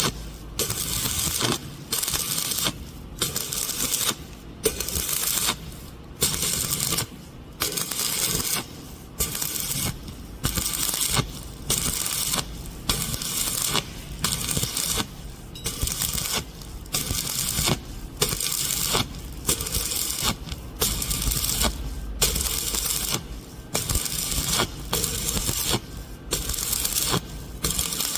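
Stick (shielded metal arc) welder's arc crackling on steel pipe. The crackle comes in stretches of about a second, broken by brief gaps again and again.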